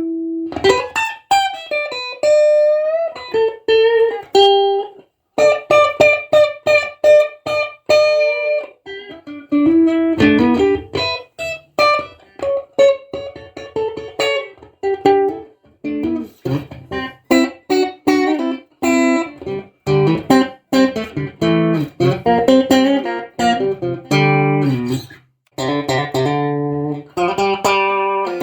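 Ash-body Strat-style electric guitar played solo. A single-note melodic line with string bends and vibrato turns, about halfway through, into lower chords and riffs.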